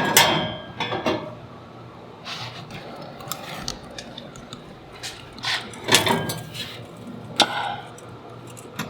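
Scattered metallic clinks and knocks of metal pieces being handled, with a short scrape a couple of seconds in, over a low steady shop hum.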